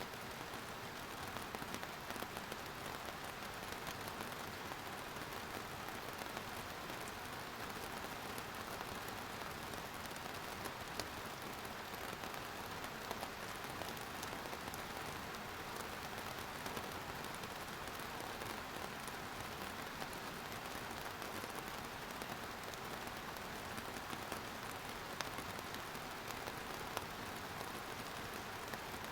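Steady rainfall hitting a surface, an even hiss of rain with scattered individual drop ticks.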